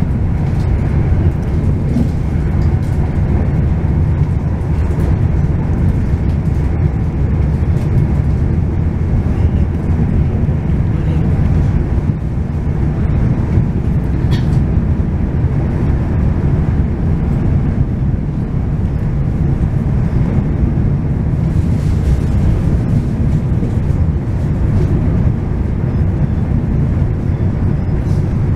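Steady low rumble of a moving train, heard from on board, with a few faint clicks.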